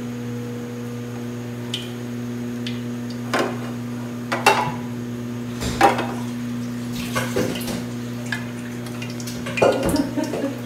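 Metal utensils clanking against cookware about five times while frying, over a steady low hum.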